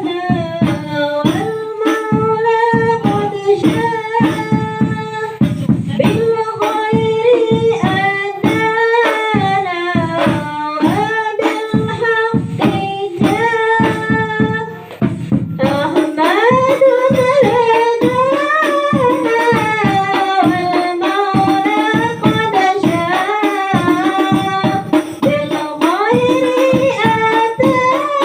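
Women singing a devotional song in unison over steady strokes of rebana frame drums. The music drops briefly about halfway through, then carries on.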